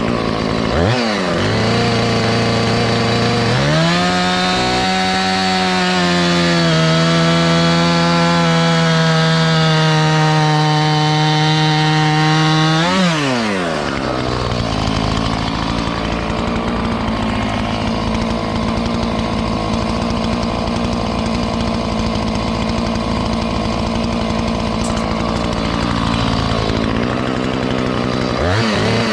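Chainsaw cutting into a log while hollowing it for a beehive. It revs up a few seconds in, holds high under load, drops back sharply about halfway, runs steadily again, and revs up once more near the end.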